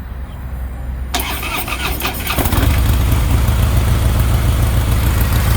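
2009 Harley-Davidson CVO Softail Springer's Twin Cam 110 V-twin being started: the starter cranks from about a second in, the engine catches about two and a half seconds in and settles into a loud, even idle through the stock exhaust with its original baffles.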